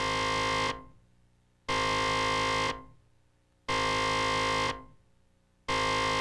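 Electronic alert tone from a TV station's severe thunderstorm warning, beeping four times: each steady beep lasts about a second, with a second of silence between.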